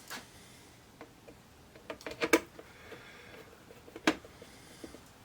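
Scattered clicks and knocks of TV parts and screws being handled during reassembly: a few single clicks, a quick cluster about two seconds in that is the loudest, and another sharp click about four seconds in.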